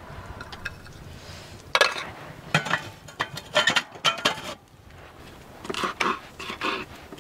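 Kitchen utensils and dishes clinking: about seven irregularly spaced sharp clinks with a brief ring, like a spoon or cutlery knocking against pots and plates.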